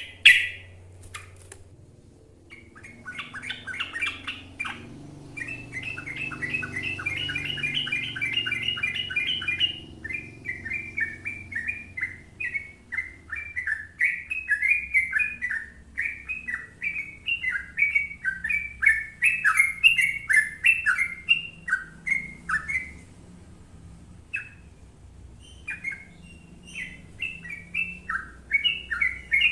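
Yellow-vented bulbul (trucukan) singing long, fast runs of bubbly, chattering notes, with a dense rapid run between about 5 and 10 seconds in and a short break a little after the middle.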